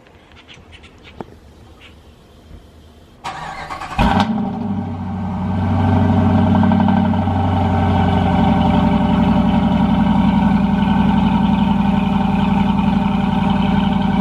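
Cold start of a truck's engine: the starter cranks for about a second, the engine catches with a brief rev flare, then settles into a steady, loud fast idle.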